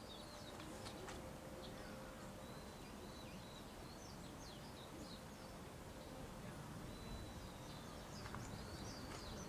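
Small birds chirping in quick, high, gliding phrases, one bout a couple of seconds in and another near the end, over a faint steady outdoor background.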